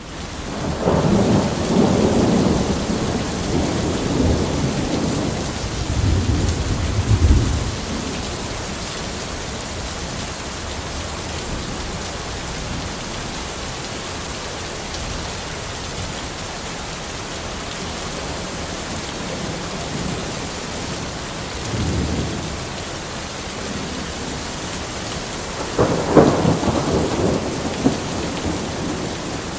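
Steady rain falling, with rolls of thunder: a long rumble over the first several seconds, a short one about three-quarters of the way through, and a louder one near the end.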